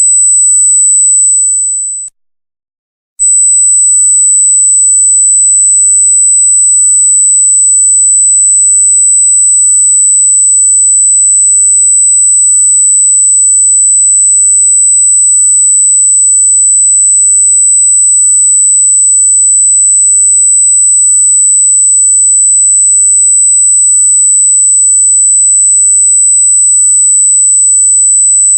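A loud, very high-pitched steady electronic tone, a single pure pitch, that cuts out for about a second near the start and then resumes unchanged.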